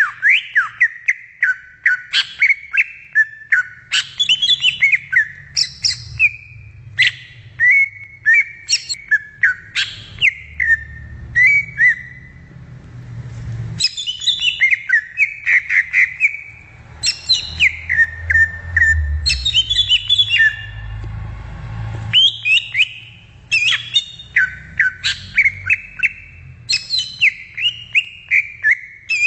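Cucak ijo (leafbird) singing: fast, varied whistled phrases with quick rising and falling slurs, repeated in bouts with brief pauses.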